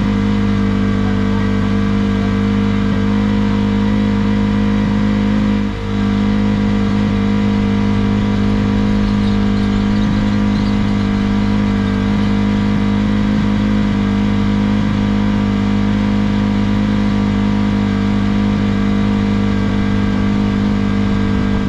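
An engine running loud and close at a steady, unchanging speed, with a brief dip about six seconds in.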